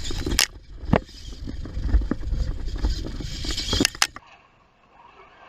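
Tamiya Lunchbox RC monster truck driving over rough ground: a rumbling clatter with sharp knocks as it hits bumps, dropping away suddenly about four seconds in.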